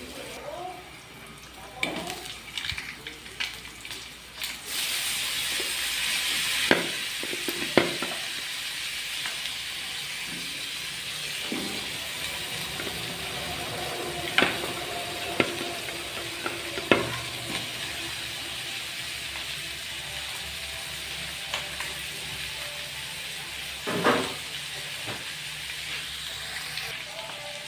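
Garlic and onions sizzling in oil in a wide metal wok, with clacks of a wooden spoon stirring against the pan. About four and a half seconds in, the sizzle jumps to a louder, steady hiss as chicken pieces go into the hot oil, and a few sharp knocks of the spoon on the wok follow.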